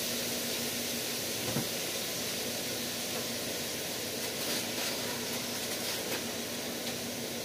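Onions and vegetables frying in oil in an electric skillet, a steady soft sizzle, with a single light knock about a second and a half in.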